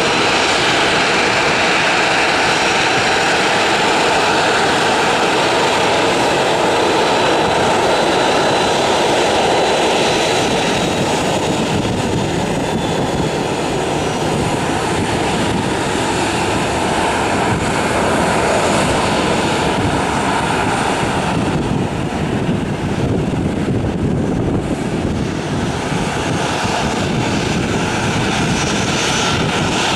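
Boeing 737-800's CFM56-7B turbofan engines running at taxi power: a steady jet rumble and hiss with a faint high whine, easing slightly about two-thirds of the way through.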